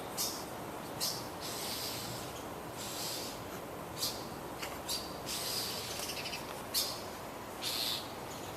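A bird screaming in alarm, about ten short, harsh calls at irregular intervals, some drawn out: the distress calls of a parent bird whose young a cat has just killed.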